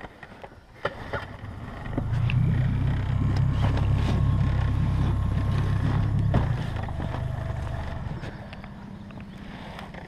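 Boat's outboard motor starting about two seconds in and running strongly, then easing off to a lower, steady run just past the middle.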